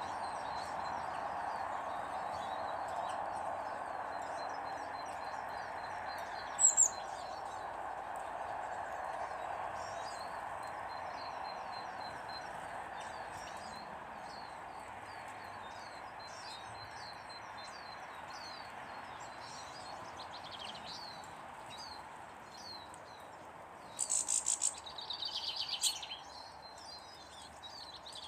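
Small birds chirping and twittering over a steady background noise, with one loud sharp call about a quarter of the way in and a burst of loud, close chirping near the end.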